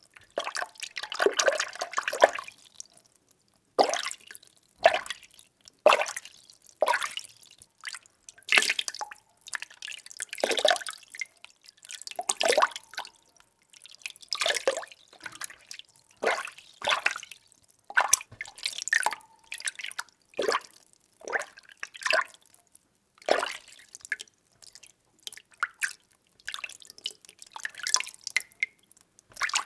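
Water being stirred: short splashing swishes about once a second, some louder than others.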